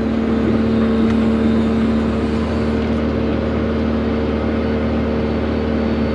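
John Deere 120 excavator's diesel engine running steadily at working throttle, a constant droning hum with no change in pitch.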